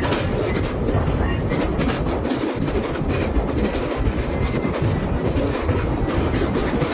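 Passenger train running at speed: a steady rumble of coaches, with the wheels clattering over the rails in quick, uneven clicks.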